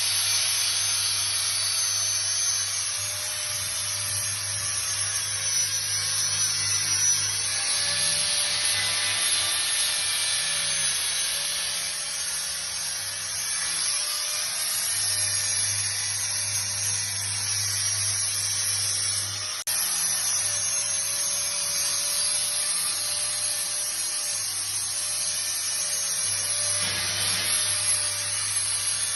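A machine running steadily: a high hiss over a low hum, with a faint wavering whine.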